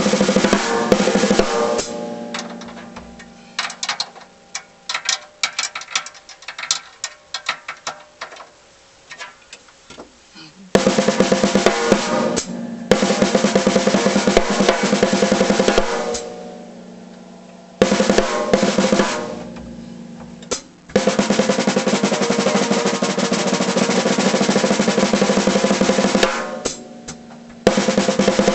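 A 1951 Slingerland Concert King 15×8 snare drum played with sticks: a quick run of strokes, then scattered single hits that ring out, then several long rolls of a few seconds each with short gaps between them.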